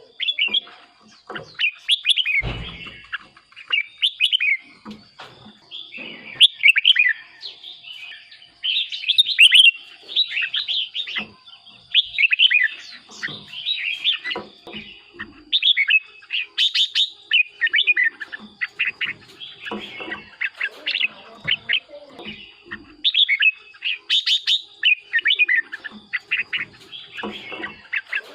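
Red-whiskered bulbul singing, short warbled phrases repeated one after another with brief gaps. A low thump sounds about two and a half seconds in.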